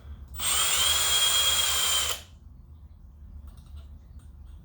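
Electric hand drill running for about two seconds with a steady high whine, then stopping. A bit is drilling a little aluminium out of the heavy side of a model-engine fan flywheel to balance it.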